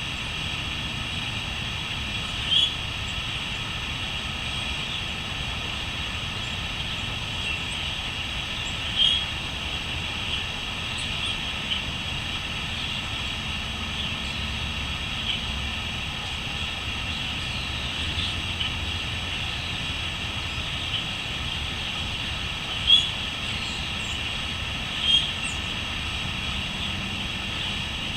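A steady, high insect chorus of crickets trilling, with a few short, louder bird calls standing out now and then, over a constant low rumble.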